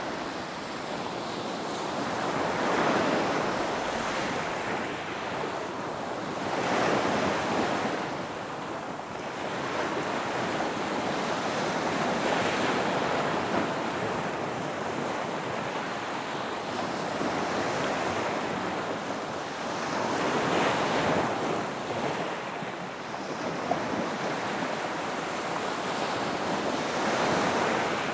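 Ocean waves breaking on a beach and washing back, a steady surf hiss that swells with each breaking wave every four to seven seconds.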